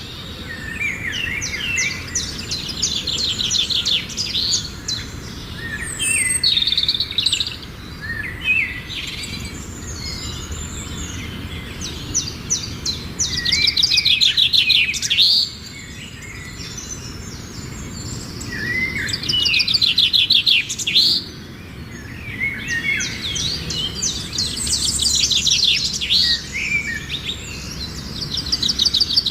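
Songbirds chirping and singing, in bouts of fast, high trilling phrases that come back every few seconds, with short chirps in between.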